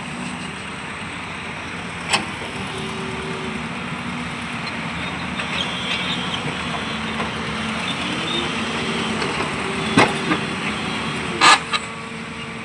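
A motor vehicle's engine running steadily, its pitch rising and falling a little, with sharp knocks about two seconds in and twice near the end.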